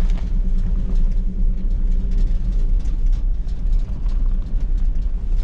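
A vehicle's engine and road noise with a steady low rumble while driving slowly, heard from inside the cab, with faint scattered rattles.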